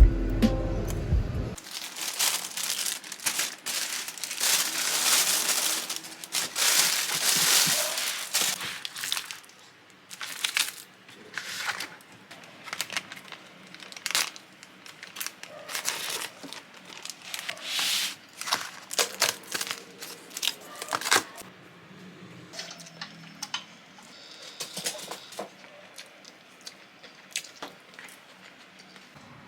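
Irregular crinkling and rustling with small clicks and taps, like packaging or paper being handled, busiest in the first third and sparser after.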